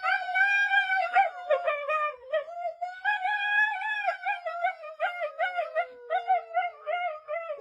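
A dog howling in a wavering, yodel-like run of rising and falling pitches, with a second long howl sliding slowly downward in the second half.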